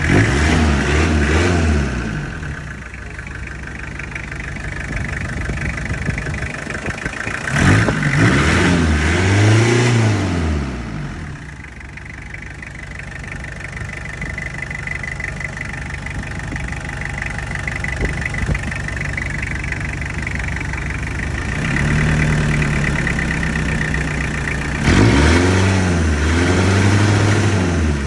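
Toyota Hilux 3L diesel engine idling and revved three times, its pitch rising and falling with each rev: once at the start, once about eight seconds in, and again near the end.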